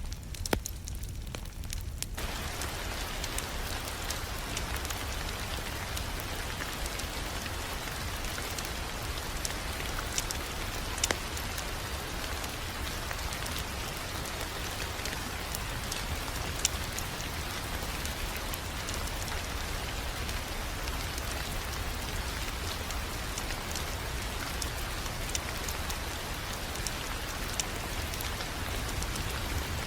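Fireplace fire crackling: a steady hiss and low rumble with scattered sharp pops and snaps. The hiss fills in about two seconds in.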